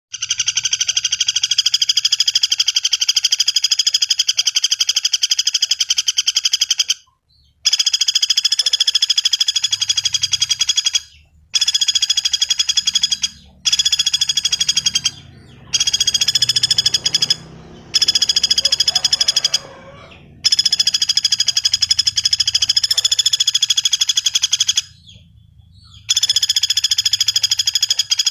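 Pelatuk bawang (velvet-fronted nuthatch) song: long, very rapid high trills lasting several seconds each, broken by short pauses. A faint low hum runs underneath partway through.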